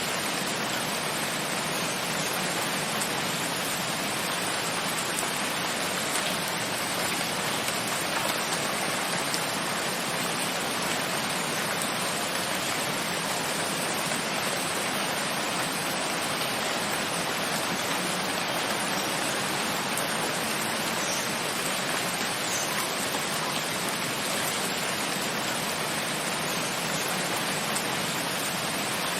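Steady rainfall, an even hiss of rain falling on surfaces with no change in strength.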